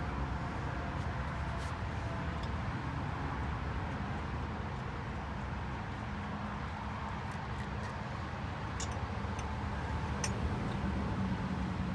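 Steady low vehicle rumble, with a few faint clicks scattered through it.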